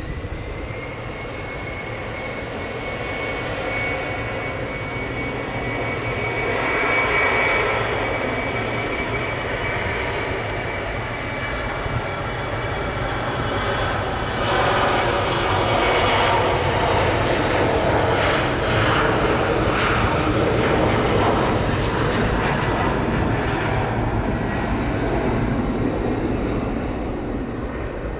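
Embraer E190 twin turbofan jet airliner at takeoff power. An engine whine rises in the first second and then holds steady over a broad jet noise, which swells and is loudest in the second half.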